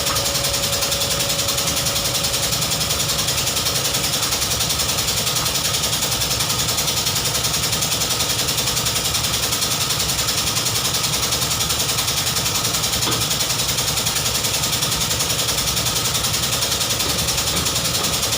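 BMW 320i engine running steadily at idle, with a fast, even pulse.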